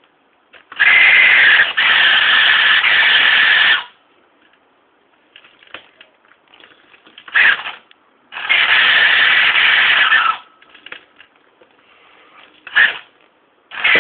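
Squeaking from the exhaust power valve mechanism of a Husqvarna SM 125 two-stroke motorcycle, a steady squeal coming in bursts of two to three seconds, three times, with two short squeaks between them. The squeaking shows the power valve control binding or running dry.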